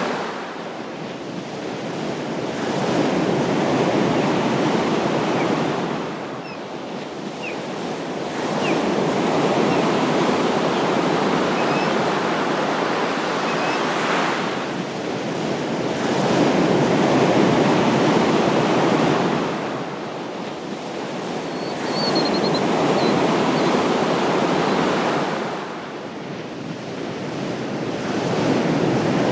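Ocean surf: waves break and wash in one after another, the rushing swelling and easing about every five to seven seconds.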